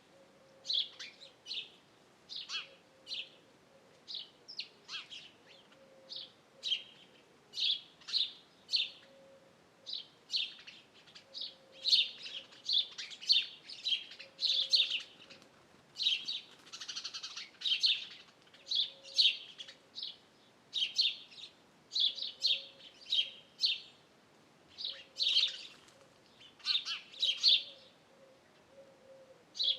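Small birds chirping: short high chirps in quick clusters of two to four, repeating about every second. A faint low note recurs in the background every second or two.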